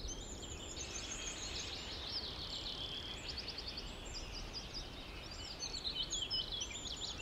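Birds chirping and trilling, many short high calls overlapping and repeating in quick runs, over a steady low rumble of outdoor background noise.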